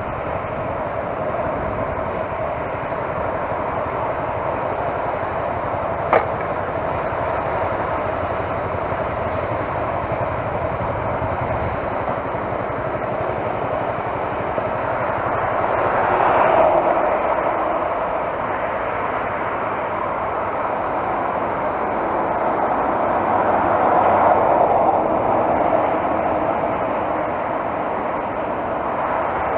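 Motorcycle underway: steady wind rush and engine noise. It swells twice, about halfway through and again near the end, with one sharp click about six seconds in.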